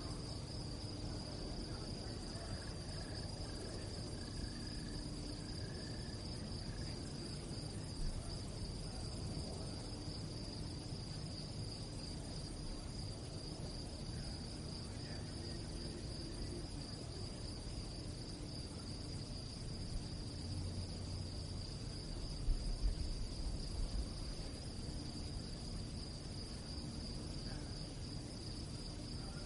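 Crickets chirping steadily in a high, rapidly pulsing trill over a low background rumble, with a few faint low thumps a little over two-thirds of the way through.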